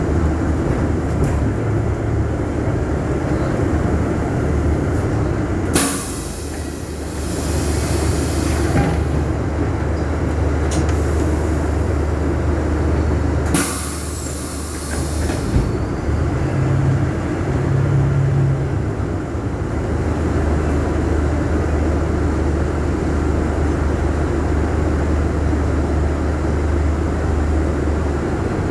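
Scania K250 UB city bus running, with a steady low engine drone and rumble. Two loud hissing bursts cut in, one about six seconds in lasting a few seconds and a shorter one about fourteen seconds in.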